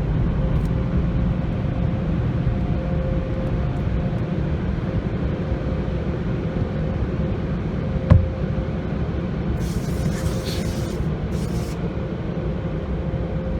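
Steady low rumble heard from inside a car moving through a tunnel car wash, under a faint steady hum, with a single thump about eight seconds in and brief hissing bursts a couple of seconds later.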